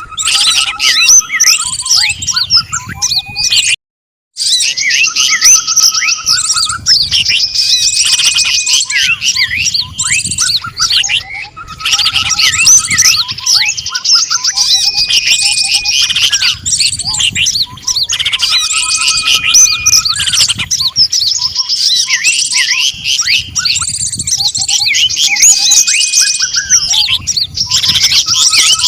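Dense, loud chorus of many small songbirds chirping, trilling and whistling over one another: a looped bird-lure recording mixing calls of birds such as the cucak ijo (leafbird), tepus, pleci (white-eye) and sirtu. The sound cuts out for about half a second around four seconds in, then the same mix repeats.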